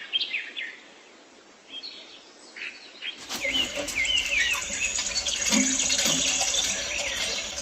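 Small birds chirping in short, quick calls. About three seconds in, a steady background noise joins them and the chirping becomes busier.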